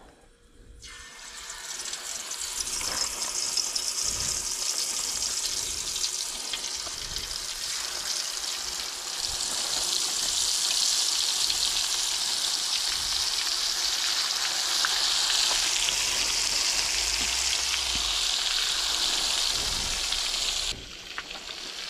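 Breaded crappie fillets sizzling in hot oil in a skillet: the sizzle builds up over the first few seconds as the fish goes into the oil, then holds as a steady frying crackle, dropping to a quieter level near the end.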